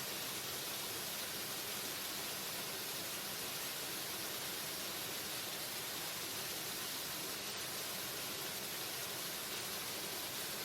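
Waterfall: steady rushing of falling water, an even hiss with no breaks or changes.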